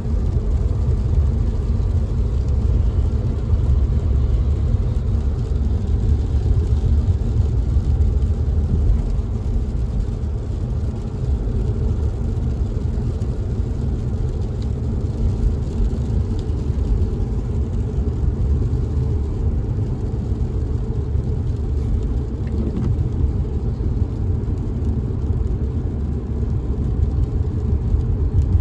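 Steady low rumble of a car driving, heard from inside the cabin, with a faint hiss of rain on the car over it.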